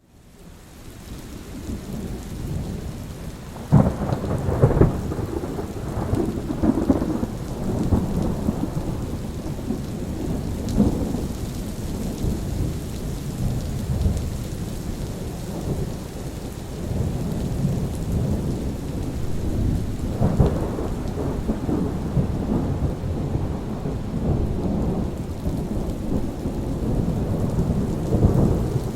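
Steady rain with rolling thunder, fading in from near silence at the start. A sharp thunderclap about four seconds in rumbles on in waves for several seconds, and another long roll of thunder begins about twenty seconds in.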